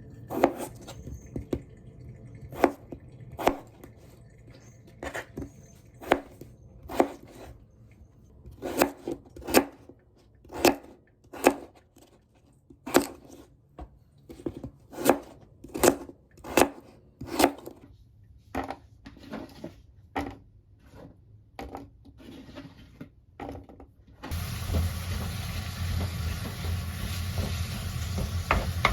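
Kitchen knife chopping on a cutting board in slow, uneven strokes, roughly one or two a second with short pauses. Near the end it cuts abruptly to a steady sizzle of food frying in a pan.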